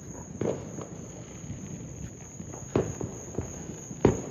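Distant aerial firework shells bursting: three dull booms spread across a few seconds, the loudest near the end, over a steady high-pitched drone of insects.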